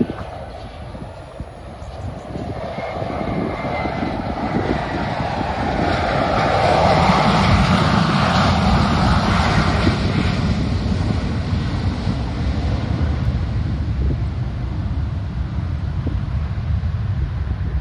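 Jet airliner on landing approach passing low overhead. Its roar grows louder to a peak about halfway through, then settles into a steady rumble, with wind buffeting the microphone.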